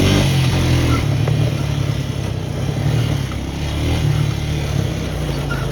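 Small off-road vehicle engine running while riding a trail downhill, its steady hum swelling and easing a few times as the throttle changes.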